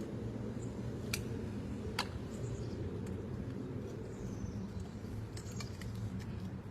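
Pump inflating a basketball: a steady low drone with a few sharp clicks scattered through it.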